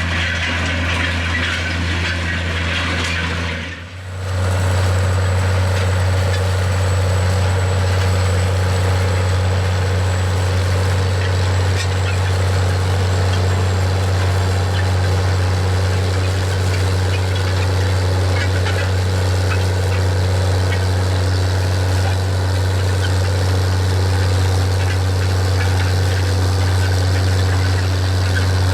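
John Deere 9420 tractor's 12.5-litre diesel engine running steadily under load while pulling a vertical tillage disk. The sound dips briefly about four seconds in, then the steady drone resumes.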